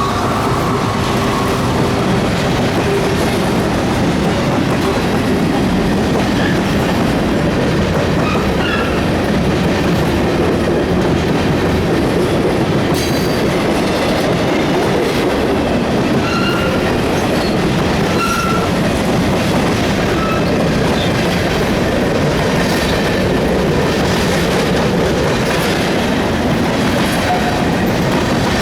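A train rolling past on the rails, wheels clattering over the joints, with short high wheel squeals now and then.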